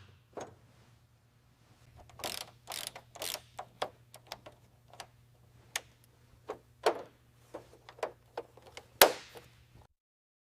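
Irregular sharp mechanical clicks and knocks, like metal parts and tools being handled, over a faint steady low hum. The loudest knock comes about nine seconds in, and the sound cuts off just before the end.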